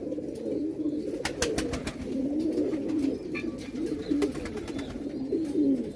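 Several domestic pigeons cooing together, low overlapping coos that run on without a break, with a quick run of sharp clicks about a second and a half in.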